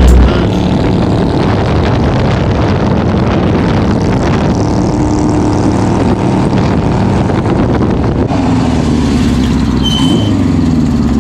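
Motorcycle engine running steadily, its note changing to a lower, smoother hum about eight seconds in. A short high beep sounds near the end.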